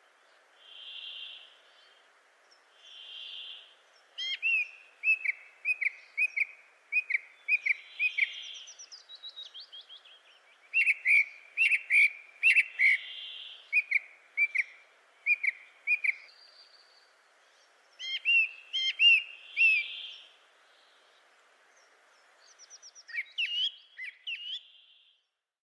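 Small birds singing: several phrases of quick repeated chirps and short whistled notes with pauses between them, plus brief buzzy calls, over a faint steady background hiss.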